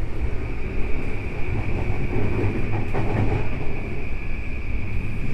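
E235 series 1000 electric train running, heard from inside the car: a steady low rumble of wheels on the track with a steady high whine that sets in at the start.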